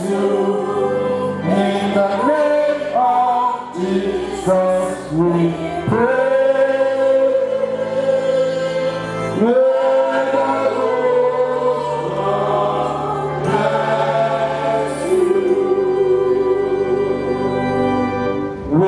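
A church congregation singing a slow gospel blessing song together, with long held notes.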